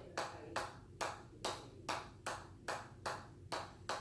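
Steady, rhythmic hammer blows at about two and a half strikes a second, each a sharp hit with a short metallic ring, in a continuous run of counted repetitions.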